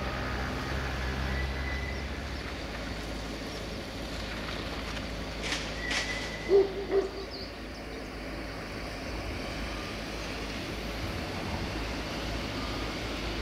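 Steady outdoor background noise, with a bird giving two short, low calls about halfway through.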